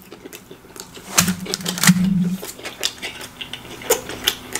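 Close-miked chewing of pizza, with many sharp wet mouth clicks and smacks. About a second in, a hummed "mmm" lasts for about a second.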